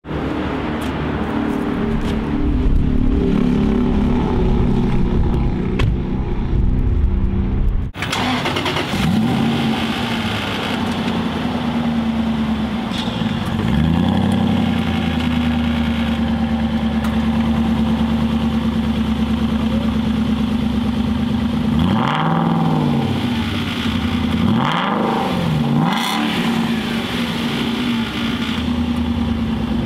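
2008 Aston Martin Vantage's 4.3-litre V8 running through its exhaust, steady at first, then idling with the throttle blipped several times so the revs rise and fall.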